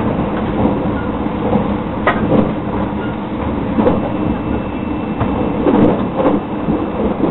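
Running noise of a JR 681/683-series electric limited express train heard inside the passenger car at speed: a steady rumble of wheels on rail with scattered irregular clacks and knocks.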